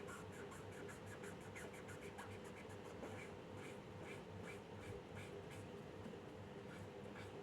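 A pen or pencil scratching on paper in quick, repeated drawing strokes, several a second, over a faint steady hum.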